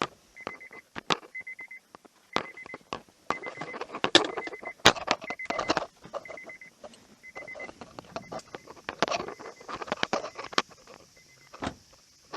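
An electronic beep that repeats in short runs, broken off at uneven gaps, over a busy patter of clicks, clinks and rattles from small objects being handled.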